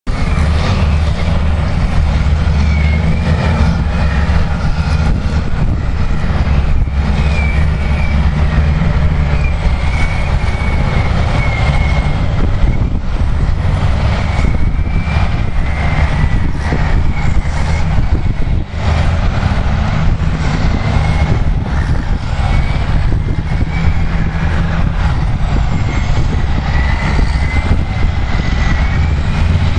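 Caterpillar 627 and 637G twin-engine wheel tractor-scrapers running hard under load as they cut and fill their bowls, a heavy diesel drone with a thin wavering high squeal over it.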